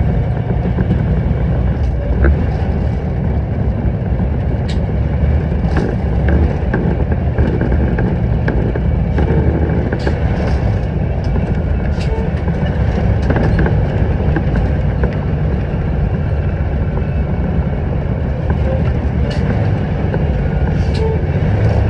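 Paccar MX-13 diesel engine of a loaded end-dump truck running steadily, a continuous low rumble with scattered small clicks and rattles.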